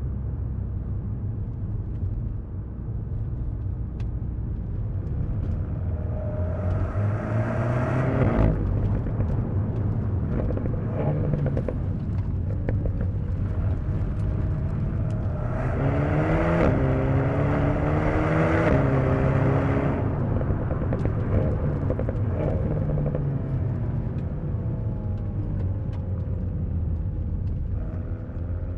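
Alpine A110 S's turbocharged 1.8-litre four-cylinder pulling hard twice, its revs climbing each time and cutting off suddenly at an upshift. Later the revs fall away as the car slows, over a steady low road rumble.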